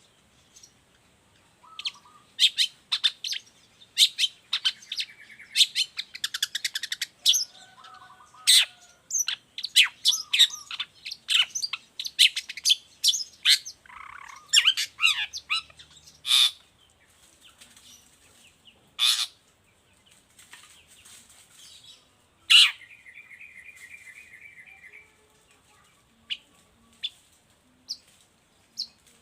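Long-tailed shrike singing vigorously: quick runs of sharp chirps and harsh notes. About three quarters of the way through there is a short buzzing trill, and the notes grow sparse near the end.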